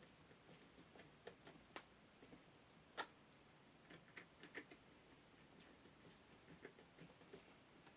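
Faint, irregular small clicks and taps of small fan parts and screws being handled during reassembly, with one sharper click about three seconds in.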